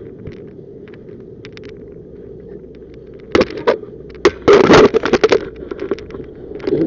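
A run of loud clattering knocks and scrapes starting about three seconds in and lasting about two seconds, over a steady low rumble.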